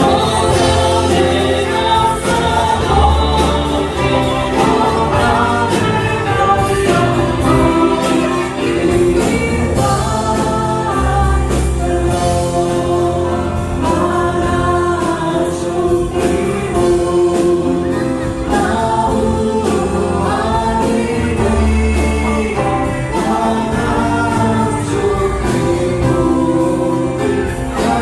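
A choir of many voices singing a gospel-style Christian song together with music, several voices holding sustained notes over a steady low bass.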